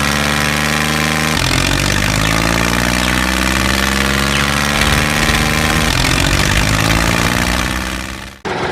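Tractor engine sound effect, a diesel-like engine idling and running steadily. The engine note changes abruptly several times where the effect is spliced, and near the end it fades out and a new section cuts in.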